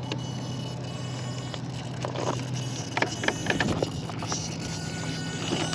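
Electric motor of a 1/10 scale RC rock crawler whirring steadily, its pitch stepping up about three seconds in, with a quick run of knocks and scrapes from the truck's tyres and chassis on rock.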